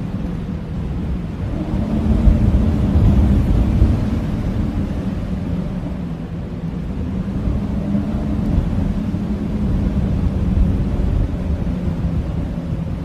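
Blizzard wind blowing hard, a deep rumbling howl with a faint low moan in it, swelling in gusts about two seconds in and again later.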